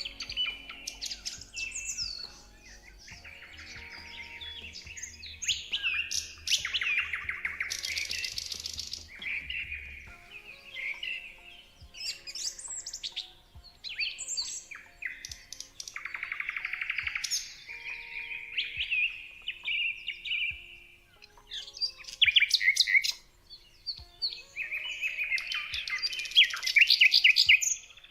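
Several songbirds singing and chirping in overlapping phrases of whistles and fast trills, loudest in a burst of rapid trills near the end.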